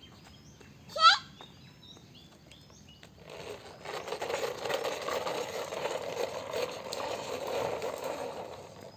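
Animal calls: faint small-bird chirps, one loud, sharp rising call about a second in, then several seconds of dense, rattling chatter like fowl.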